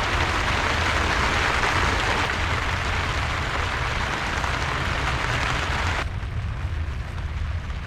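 Steady hiss of rain falling, over a low rumble; the hiss drops away abruptly about six seconds in.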